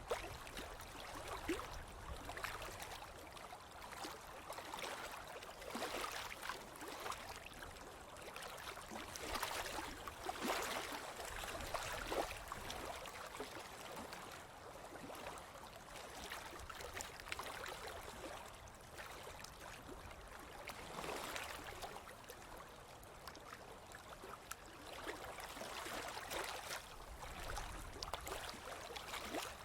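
Ocean waves breaking and washing up the beach, a continuous hiss that swells in surges every few seconds.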